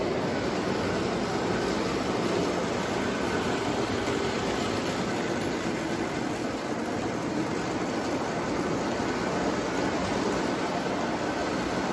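O gauge model train running steadily around the layout: a continuous motor hum and rolling wheel noise from the locomotive pulling a string of boxcars and a caboose.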